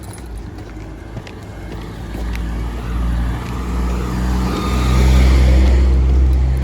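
A motor vehicle driving past, its engine hum and tyre noise building to their loudest about five seconds in and dropping away near the end.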